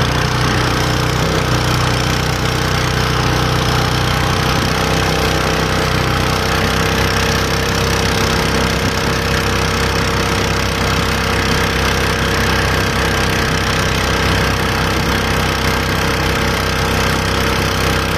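Small 8 hp, 252 cc four-stroke boat motor running steadily under power at an even pitch.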